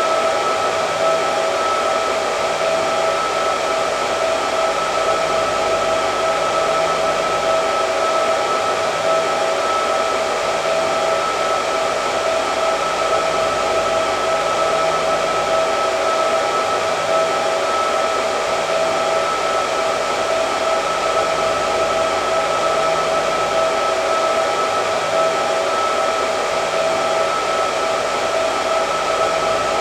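Hair dryer running steadily: a constant rush of air with a steady motor whine in it, unchanging throughout.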